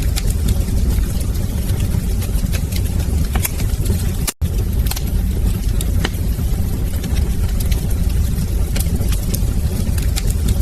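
Wood fire crackling, with irregular sharp pops and snaps over a steady low rumble of flames. The sound cuts out for a split second about four seconds in.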